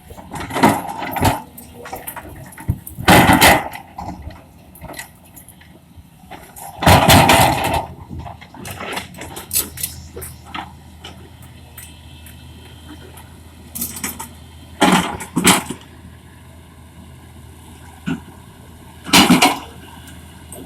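Excavator engine running steadily, with several loud, brief noisy crashes and cracks spaced a few seconds apart.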